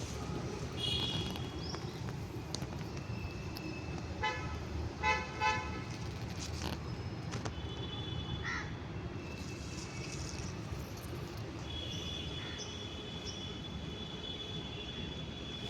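Street traffic rumbling steadily, with vehicle horns tooting several times, in a cluster of short toots about four to five and a half seconds in.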